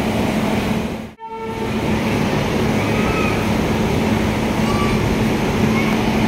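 Steady machine hum of a train standing at the platform: an electric locomotive and track recording coach with their equipment running, a low steady tone over an even rumble. The sound drops out for a moment about a second in.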